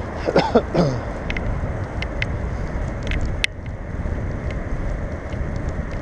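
Wind rushing over the microphone and the rumble of a bicycle rolling along the road, with scattered sharp clicks and rattles from the bike. A brief voice sound comes in just after the start.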